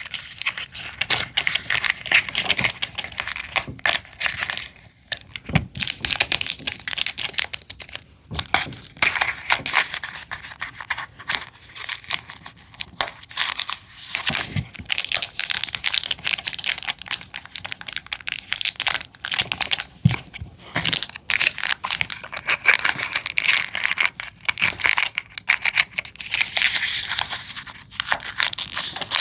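Crinkling and tearing of thin plastic packaging, with many quick small clicks and taps of tiny plastic Mini Brands items being handled.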